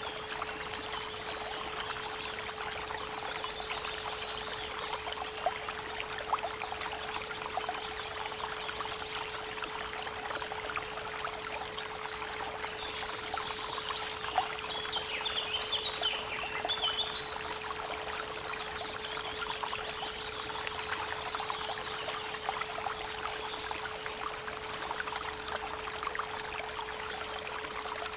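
Creek water running steadily, with a constant 432 Hz pure tone held underneath. Birds chirp and trill now and then, most around the middle.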